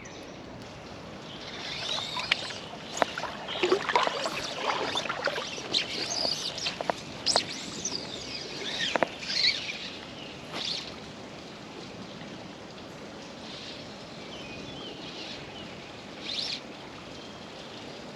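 Water splashing and sloshing in a shallow creek for several seconds, with many small sharp splashes, settling about ten seconds in to the steady rush of the flowing creek with a few faint bird chirps.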